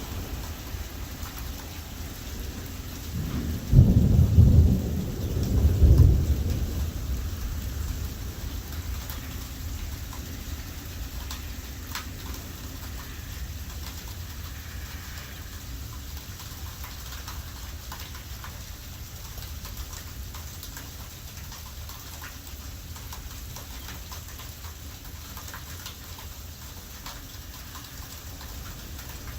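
Heavy thunderstorm rain falling steadily, with drops ticking close by. About four and six seconds in, two loud low rumbling surges from strong gusts of wind buffeting the microphone.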